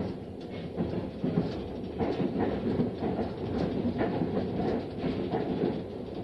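A train running on the rails: a steady rumble with scattered clicks and knocks from the wheels and carriage.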